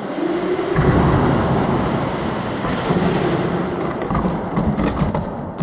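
Small 1/16-scale electric RC car driving over rough ground: a continuous rumble of tyres, gears and rattling chassis with a wavering motor whine rising and falling as the throttle changes.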